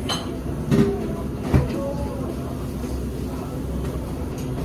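Steady low rumble of a busy restaurant's background noise, with a few short knocks and clinks of tableware in the first second and a half.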